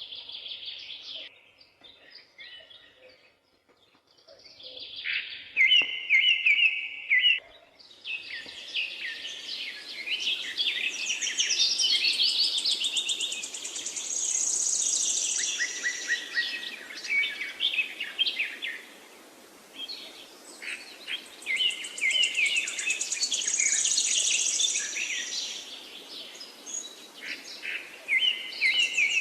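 Several forest birds singing at once, with overlapping chirps, short repeated phrases and high trills. From about eight seconds in, a steady hiss of background noise runs beneath them.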